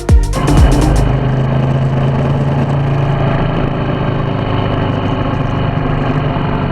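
Motorcycle engine running steadily at an even speed, with no change in pitch. The last thumps of an electronic dance track end about half a second in.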